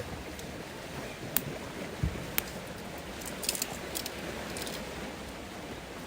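Steady rain noise with a few sharp ticks of drops and one low thump about two seconds in.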